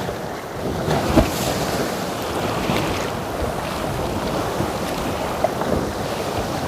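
Sea water sloshing around a kayak in choppy swell, with wind buffeting the microphone. There is a single knock a little over a second in.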